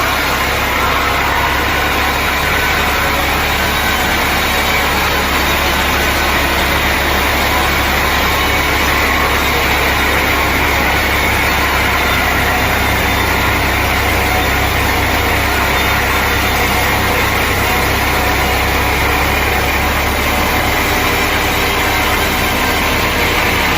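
Sawmill machinery running steadily, a constant engine-like drone with a low hum underneath and no breaks.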